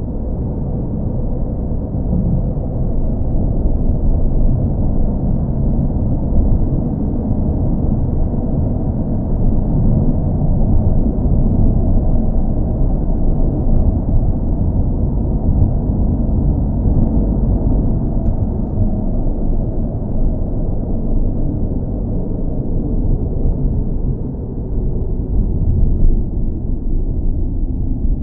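A car engine's steady, deep rumble with no sharp sounds.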